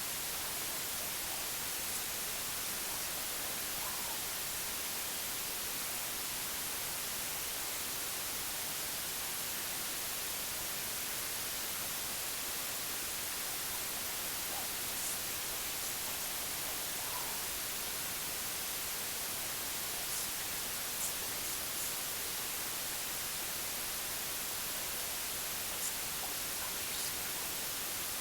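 Steady white noise: an even, unchanging hiss, brightest in the treble, with a few faint brief ticks.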